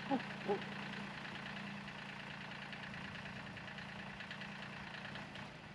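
Tractor engine idling steadily, fading away near the end.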